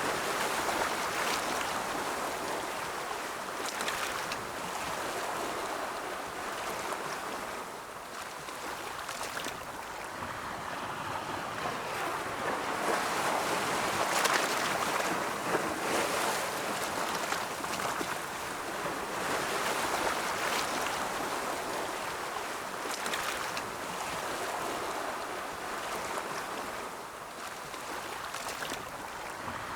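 Ocean waves rolling in and washing on a shore: a continuous surf hiss that swells and ebbs every few seconds, loudest about halfway through.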